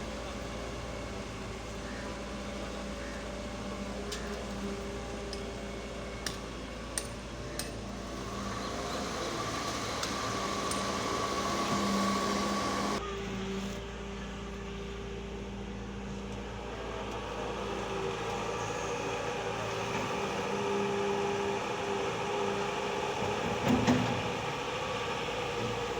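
Excavator's diesel engine running steadily under work, growing louder partway through. There are a few sharp clicks and, near the end, a couple of knocks.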